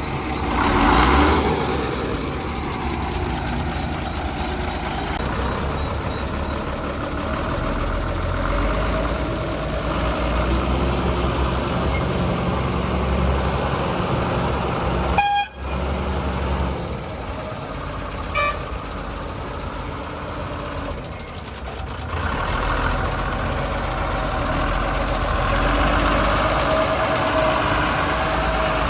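Diesel engine of a JCB 3DX backhoe loader running steadily while digging and loading, with the engine working harder in the last few seconds. About halfway there is a short sharp sound, possibly a horn toot, and the sound cuts out briefly.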